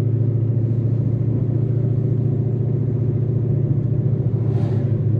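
Steady low drone of a Ford Mustang GT's Coyote 5.0 V8 and road noise while the car is driven at a constant pace.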